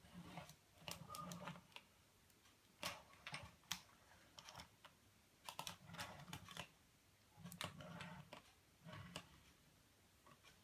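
Faint, irregular clicks and taps of a plastic Optimus Prime transforming figure being handled, with a few soft low thuds.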